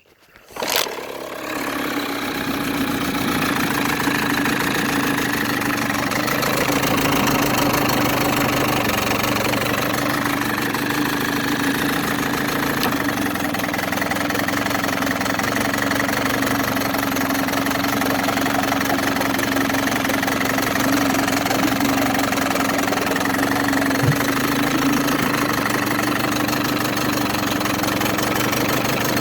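Small 1980s Mercury two-stroke outboard motor (7.5 or 9.8 hp) catching about a second in and then running steadily.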